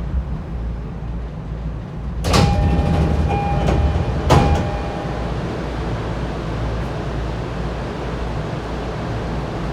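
Interior running sound of an E231-1000 series commuter EMU: a steady low rumble of the train on the rails. About two seconds in it gets louder for two seconds, with two sharp knocks about two seconds apart and a brief ringing tone between them.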